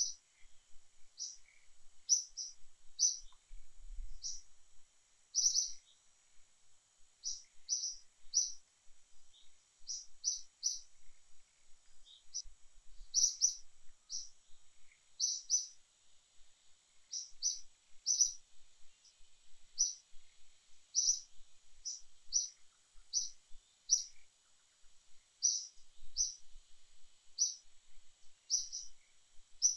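Small bird chirping over and over: short high chirps, often in quick pairs or threes, every second or so, over a faint steady high-pitched hiss.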